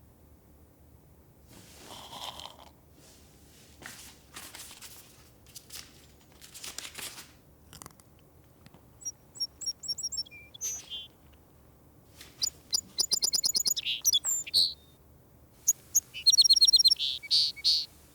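A small songbird chirping in rapid high trills, one short run about halfway through and two longer, louder bursts in the second half. Softer rustling noises come before them.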